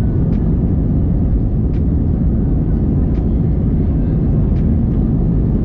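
Steady low rumble of an Airbus A320 airliner heard from inside the cabin, with faint ticks about every second and a half.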